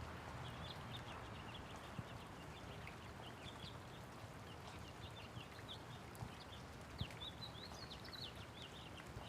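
Light rain falling steadily, with many small birds chirping in quick short high notes throughout. A few sharp taps stand out, about two seconds in and again near seven seconds.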